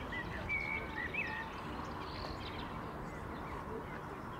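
Birds chirping: a few short whistled notes in the first second and a half, over a steady outdoor background noise.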